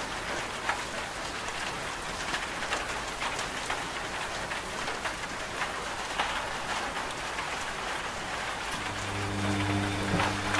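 Steady rain falling on a surface, a continuous hiss with many individual drops ticking through it. About nine seconds in, a washing machine's steady low motor hum joins the rain.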